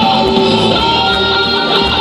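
Instrumental rock: a lead electric guitar playing long held notes that move to a new pitch every half second or so, over drums and bass.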